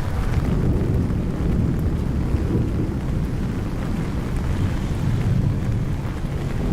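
Steady rain in a city street over a low, rolling rumble that swells and fades, typical of distant thunder in a light thunderstorm.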